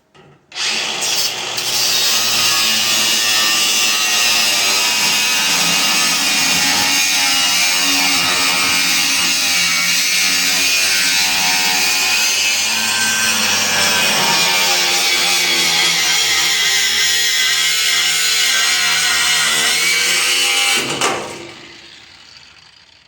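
Power reciprocating saw cutting through metal bolts, running steadily with its pitch wavering under load for about twenty seconds before it winds down near the end.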